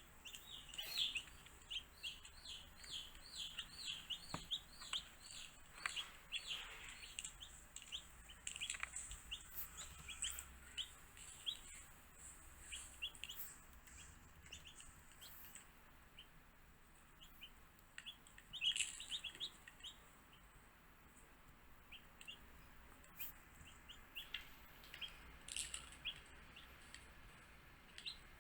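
Baby chicks peeping: many short, high chirps in rapid series, thickest in the first few seconds and again past the middle, thinner in between.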